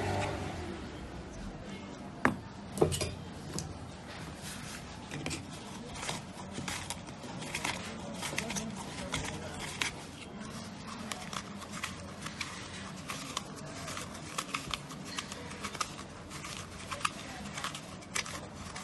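Irregular small clicks and metallic taps of tools and small metal parts being handled, with two sharper knocks about two and three seconds in.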